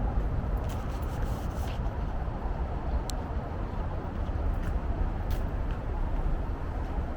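Steady street ambience: a low traffic rumble with faint scattered clicks and one brief high tone about three seconds in.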